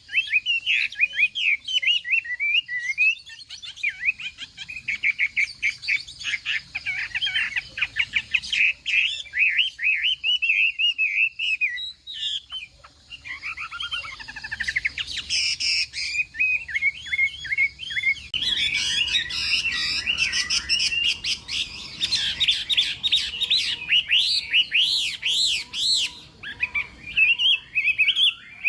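Chinese hwamei (melodious laughingthrush) singing a long, varied song of rapid whistled phrases that slide up and down in pitch. The song dips briefly about twelve seconds in, then comes back denser and louder from about eighteen seconds on.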